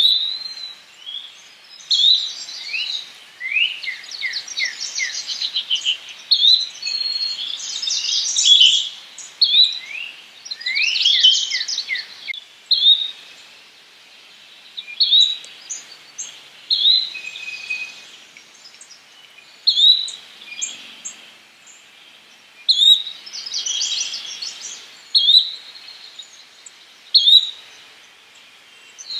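Yellow-bellied flycatcher giving a short, sharp call every two to three seconds, with rapid trilled songs of another songbird in among the calls.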